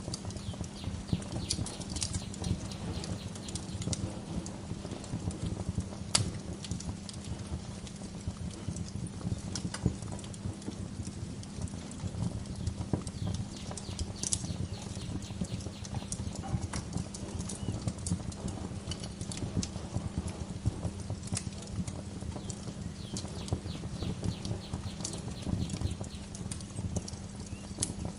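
Wood fire crackling in a fireplace: a steady low rumble of flame with frequent, irregular sharp pops and snaps.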